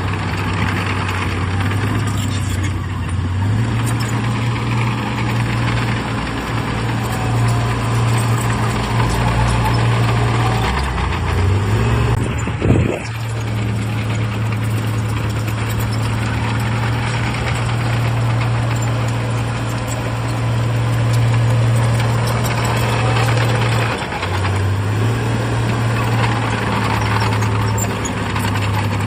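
Bulldozer's heavy diesel engine working under load, its pitch stepping up and down as the load changes, with a brief dip near the end. One sharp knock is heard about halfway through.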